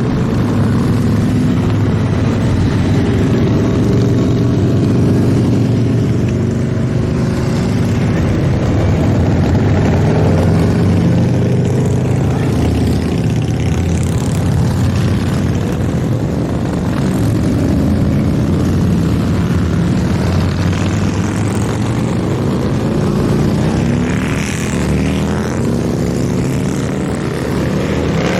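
A procession of motorcycles riding past, many engines running together in a loud, steady drone. Near the end, single bikes can be heard sliding in pitch as they pass close by.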